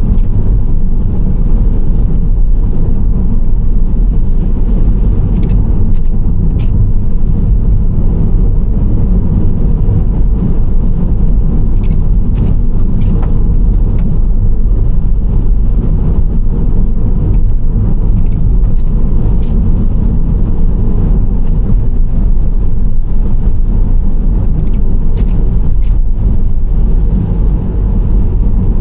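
Nissan Serena C25 minivan driving at steady speed: a continuous low rumble of tyres and engine, with faint high clicks now and then.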